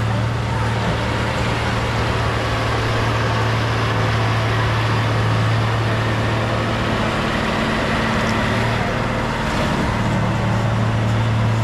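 Heavy diesel engine of earthmoving equipment running steadily, a strong low drone with a broad rush of noise over it; the drone wavers briefly near the end.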